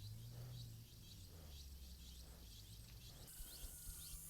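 Faint, evenly repeated high chirping of insects, a few chirps a second, over a low steady hum of outdoor background.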